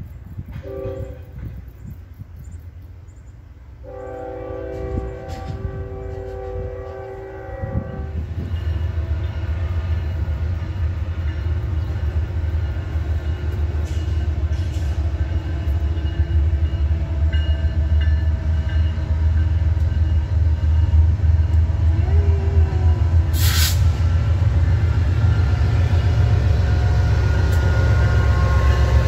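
BNSF diesel locomotives of a grain train approaching. The air horn blows a chord of several notes for a few seconds early on. After that a steady low engine rumble grows louder as the locomotives draw near.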